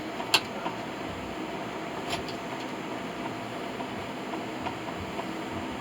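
Electric fan running with a steady hum, with a sharp click about a third of a second in and a fainter tick about two seconds in.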